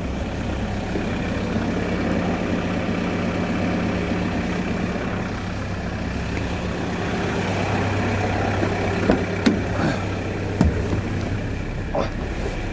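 Car engine running steadily with a low hum, broken by a few short clicks and knocks in the last few seconds.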